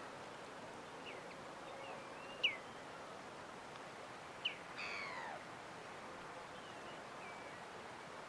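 Birds calling: a few short, sharp downward-sweeping chirps, the loudest about two and a half seconds in, and one longer falling call about five seconds in, over a steady background hiss.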